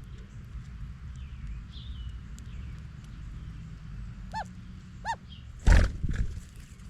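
Songbirds at a feeder: faint scattered chirps over a steady low rumble, two short clear calls about four and five seconds in, then a brief loud rustling thump near the end.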